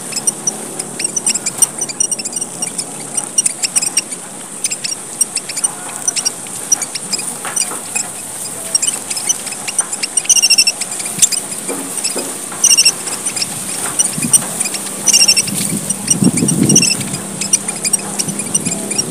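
Papuan red finches (emprit merah papua) in fast, busy chirping: a dense run of short, high chirps. A louder call repeats four times in the second half.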